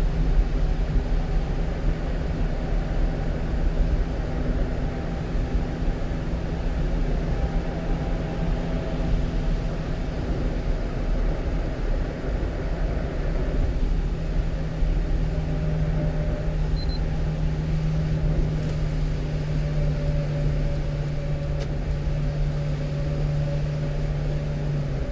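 Cab interior of a 1-ton truck cruising on the highway: steady engine drone with low road rumble.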